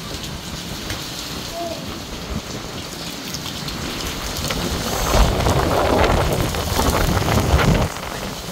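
Heavy rain pouring steadily. About halfway through it swells into a louder rush with a deep rumble, then drops back sharply near the end.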